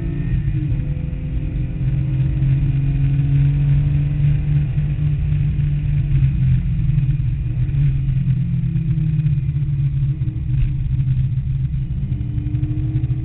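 Porsche 911's air-cooled 3.2-litre flat-six heard from inside the cabin while it is driven hard on track. The engine note drops at the start, then holds with small rises and falls as the driver works the throttle through the turns.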